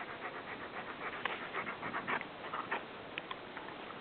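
Alaskan Malamute panting in a quick, uneven run of short breaths, winded after a hike.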